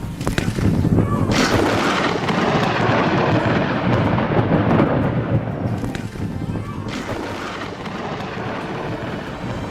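A loud crack, then a heavier one about a second in, swelling into several seconds of rumbling that eases off, with another crack near the seven-second mark.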